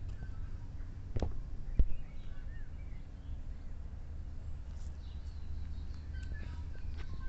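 Small birds chirping in short scattered calls over a steady low rumble, with two sharp knocks a little over a second in.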